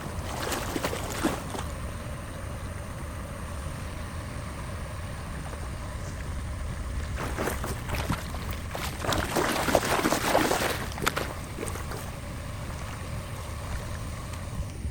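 Flowing water gurgling through a cleared drain or culvert, with wind rumbling on the microphone. A louder stretch of splashing and crackling comes from about seven to eleven seconds in.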